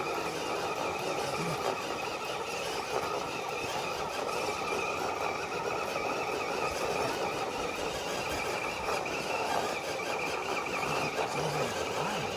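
Axial Deadbolt RC crawler truck pulling a weighted sled: its electric motor and geared drivetrain whine steadily under load, with a high steady squeal over the noise.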